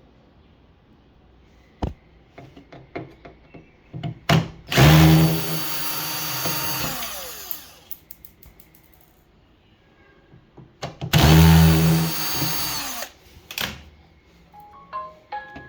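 Hand-held power drill or screwdriver run twice, each run a few seconds long. The first run winds down with a falling pitch. Small clicks and knocks of parts being handled come between the runs.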